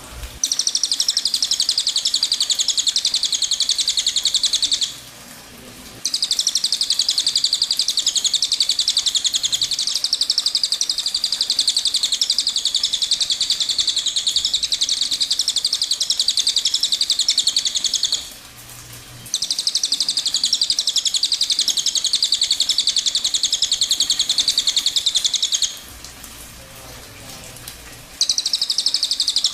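Cililin bird singing its 'tembakan' song: long, dense bouts of very rapid, high-pitched trilled notes, each lasting several seconds. There are short breaks about 5 seconds in, about 18 seconds in and about 26 seconds in.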